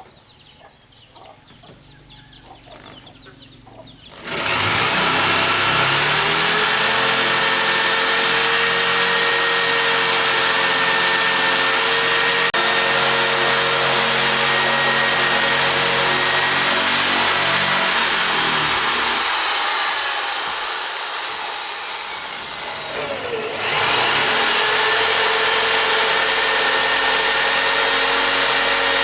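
A power tool motor spins up with a rising whine about four seconds in and runs steadily. It slows and dies away, then spins up again and keeps running near the end.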